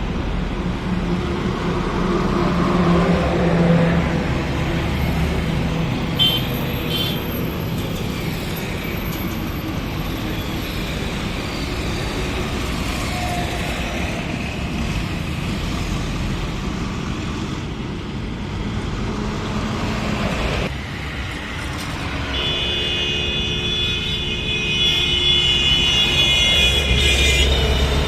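Highway traffic with heavy trucks running past in a steady rumble of engines and tyres. Horns sound with a short toot about six seconds in and a long multi-tone blast in the last several seconds.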